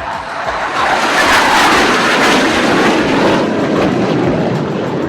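Jet noise of BAE Hawk trainer aircraft passing low: a loud roar that swells over about a second, holds for a couple of seconds, then slowly dies away.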